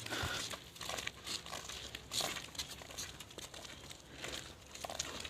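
Footsteps crunching and rustling on dry ground, in an irregular series of short crunches.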